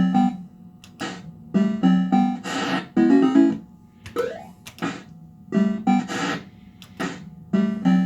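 Bell-Fruit Cash Explosion fruit machine playing its electronic game sounds: a string of short synthesized jingles and beeps in bursts about once a second, with a few sharp clicks and a sliding electronic sweep.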